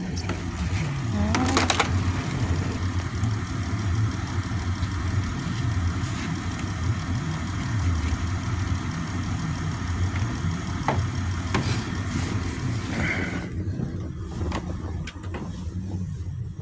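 Car engine idling steadily during a jump start of a car that won't start in the winter cold. A brief sharp sound comes about one and a half seconds in.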